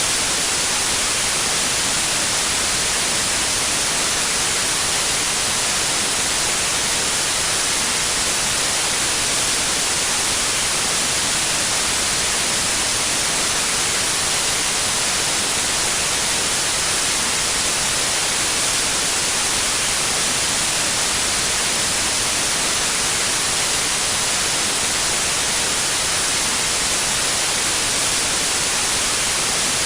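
Steady, unchanging white noise: an even hiss, brightest in the high frequencies.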